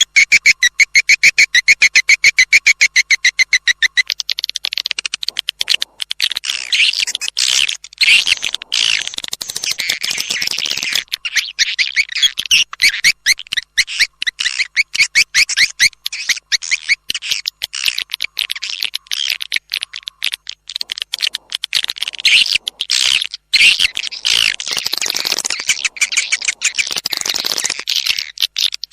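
Swiftlet lure call played back for a swiftlet house: a fast train of sharp, high chirps, evenly spaced for the first few seconds, then a denser, more varied twittering of many overlapping calls.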